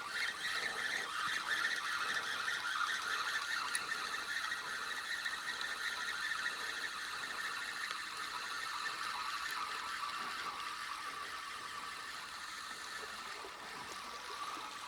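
Fishing reel being wound in steadily to land a small burbot after a bite, a continuous whirring that slowly fades.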